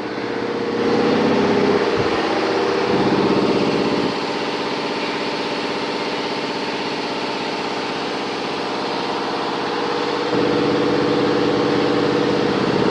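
Garage air compressor running, a steady mechanical hum that gets louder about a second in, quieter at about four seconds, and louder again near the end.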